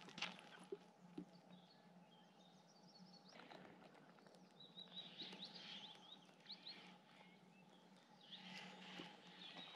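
Faint birdsong: short chirping phrases, busiest from about four and a half to seven seconds in.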